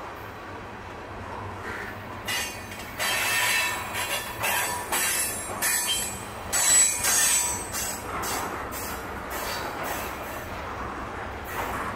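Freight train tank cars rolling slowly past, their steel wheels squealing in irregular bursts, loudest in the middle.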